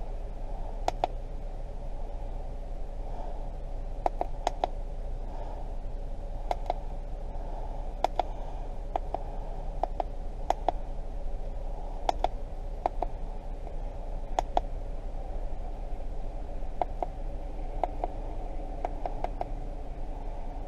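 Irregular sharp clicks of buttons being pressed on a handheld key-programming tool while scrolling its menus, about twenty presses, some in quick pairs and triples, over a steady hum.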